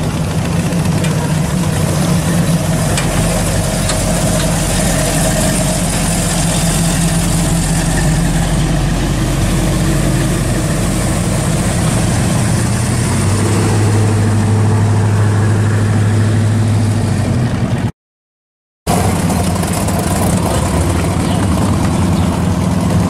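Classic American car engines idling and running at low speed as the cars crawl past, a steady engine note that turns deeper and stronger a little past halfway. The sound cuts out completely for about a second near the end.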